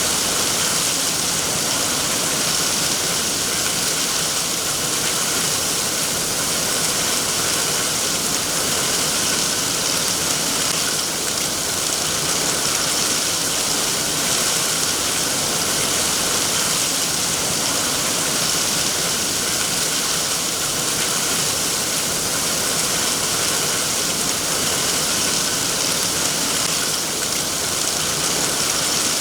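Steady rain falling, an even hiss without pauses or distinct drops standing out.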